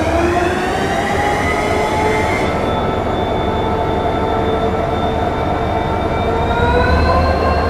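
WDP4D diesel locomotive's EMD two-stroke engine running up in speed. A steady low rumble sits under a whine that rises in pitch over the first two seconds, holds steady, then climbs a little again near the end.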